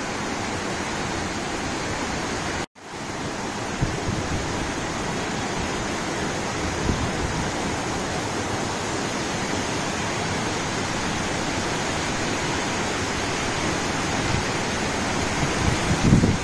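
Heavy rain pouring in strong wind, a dense even hiss, with a few short low gusts of wind on the microphone, the largest near the end. The sound cuts out for an instant about three seconds in.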